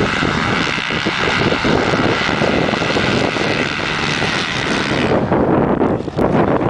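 A field of motocross bikes running together at high revs at a race start, a loud dense engine din. About five seconds in, the high-pitched edge of the noise falls away while the lower engine sound carries on.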